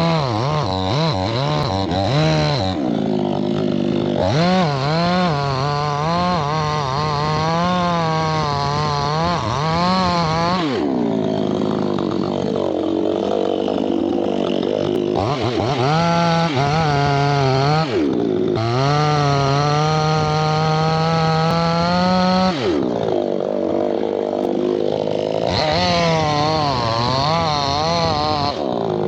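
Two-stroke chainsaw running hard through a teak tree, its engine pitch wavering under load. It eases back between cuts several times and then revs up again.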